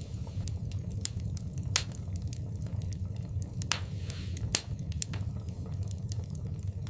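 Wood fire burning in a fireplace: a steady low rumble of the flames with irregular sharp crackles and pops, two of them louder than the rest.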